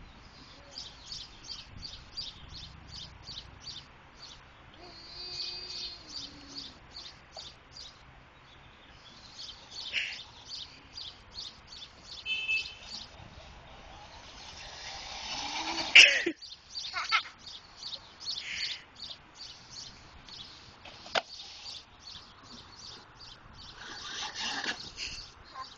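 A bird chirping over and over in runs of short, high chirps, about three or four a second. A louder sweeping sound comes once, about two thirds of the way through.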